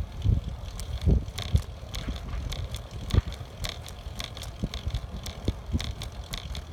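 Riding a bicycle: a gusty low rumble of wind on the microphone, with scattered sharp rattles and clicks from the bike over the ride.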